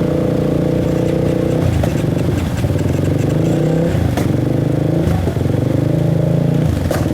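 Off-road motorcycle engine running steadily at low revs. Its pitch sags briefly twice, and there are two sharp clicks.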